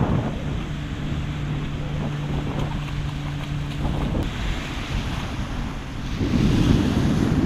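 Wind buffeting the microphone over waves breaking in the surf, with a steady low hum during the first half and a louder surge of wind and water near the end.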